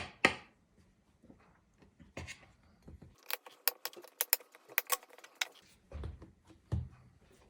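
A quick run of light, sharp metallic clicks from a knife tapping against the pie dish while pastry is trimmed off the edge, followed by two dull thumps.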